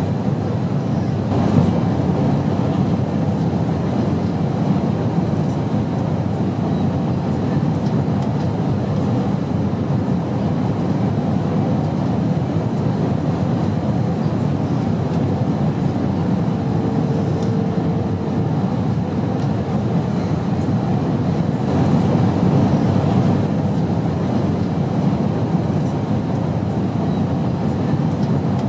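Steady low drone of an airplane's engine and air noise.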